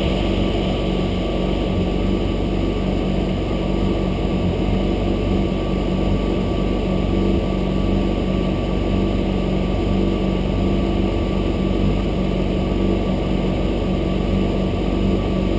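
Motorcycle engine running at a steady speed, with a constant even drone and no revving.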